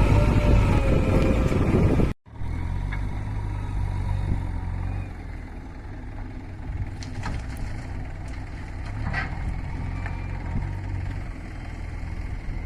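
Heavy vehicle engine running steadily with a low rumble, after a sudden cut about two seconds in. The louder stretch before the cut has a wavering pitch.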